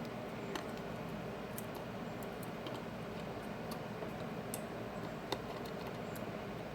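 Scattered faint clicks and ticks of small phone parts and tools being handled as a smartphone's motherboard is seated back into its frame, over a steady low hum.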